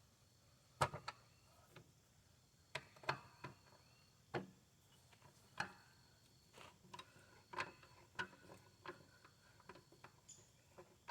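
Scattered metallic clicks and knocks of a hand ratchet and socket being worked on the bolts that hold the mower engine to its deck, some coming in small clusters with short gaps between them.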